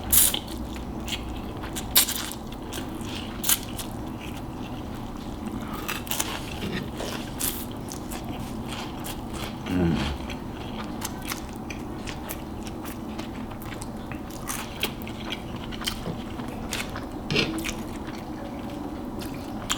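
Close-miked chewing of Flamin' Hot Cheetos noodles, the crunchy Cheetos giving many irregular sharp crunches, the loudest near the start and about two seconds in.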